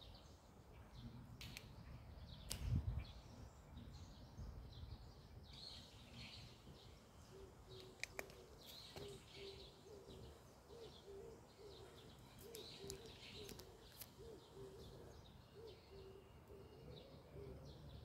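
Faint ambience with scattered short bird chirps and calls, and a brief low rumble about three seconds in.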